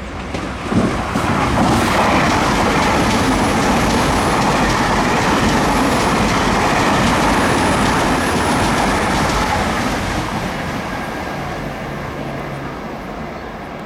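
A train passing close by: a loud rush of wheel and rail noise with some clickety-clack. It swells after a sharp knock about a second in, holds for several seconds, then fades away toward the end.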